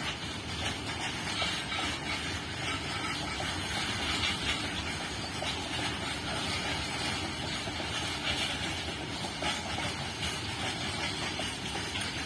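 Freight train of open-top wagons rolling past: a steady rumble of wheels on the rails with faint clicks and rattles from the wagons.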